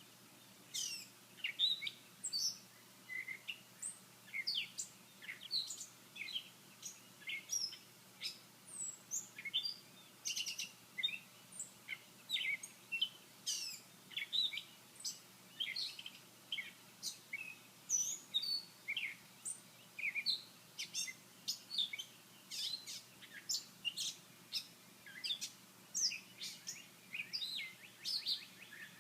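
Songbirds chirping in the morning: a dense run of short, high, sharp chirps, many overlapping, starting about a second in.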